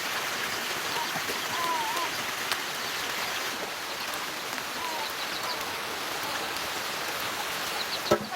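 Steady rain falling, a continuous hiss of drops, with one short sharp knock near the end.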